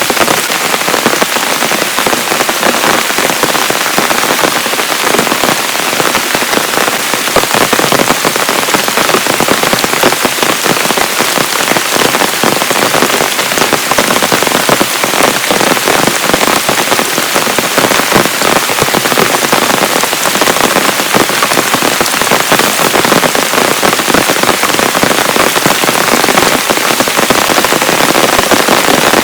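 Heavy rain falling steadily: a dense, even wash of countless drop hits that neither builds nor eases.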